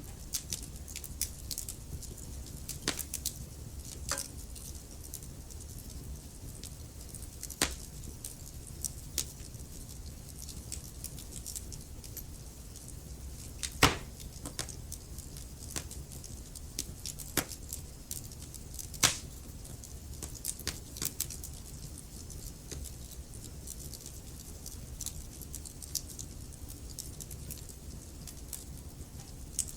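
Wood fire crackling in a fireplace: scattered small pops and snaps over a low steady rumble, with two louder pops, one about halfway through and another a few seconds later.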